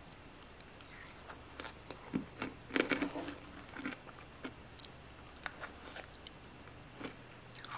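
Close-up chewing of a spoonful of chocolate yogurt with crunchy granola, the crunching loudest about three seconds in. Light clicks of a wooden spoon scooping in a wooden bowl.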